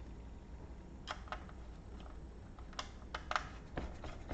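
A few light, scattered clicks and taps of small hard laptop parts being handled, at a low level.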